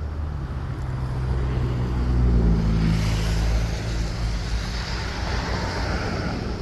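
Low engine hum of a passing motor vehicle, swelling to its loudest about two and a half seconds in, then giving way to a rushing hiss.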